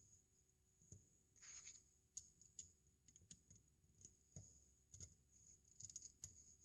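Faint, scattered clicks of plastic LEGO bricks being handled and pressed together, with a brief rustle about a second and a half in.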